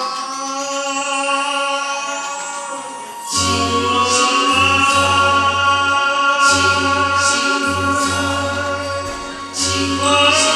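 A singer holds a long note over backing music. About three seconds in, the full accompaniment comes in with a steady bass, and the singing goes on over it.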